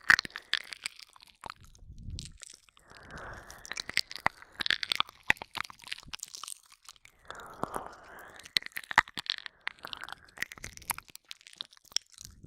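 Close-up ASMR mouth sounds: wet licking, smacking and clicking right at the microphone, as in ear-licking ASMR. The sounds come in three bursts with short quiet pauses between them.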